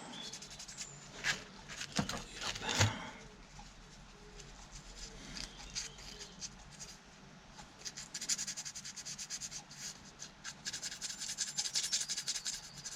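Hand work on small hydraulic pump parts: a few sharp knocks in the first three seconds, then fast scratchy rubbing from about two-thirds of the way in.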